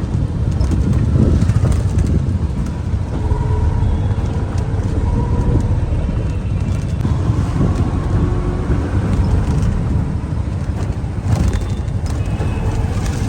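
Steady low rumble of vehicle or road-traffic noise, with a few faint short tones coming and going.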